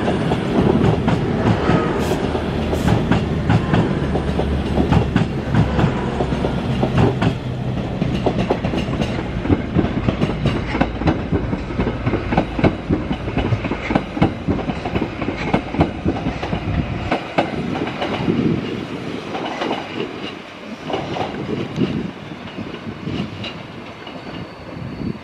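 Avanti West Coast passenger train pulling away over the station pointwork, its wheels clattering rapidly over rail joints and points above a low rumble. The rumble drops away about two-thirds of the way in, leaving a quieter, thinning clatter as the train recedes.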